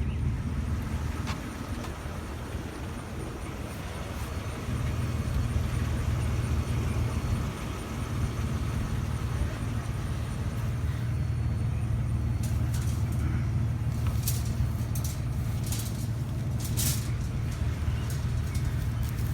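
A vehicle engine idling with a steady low rumble, briefly quieter a couple of seconds in. A few sharp clicks or clinks come in the second half.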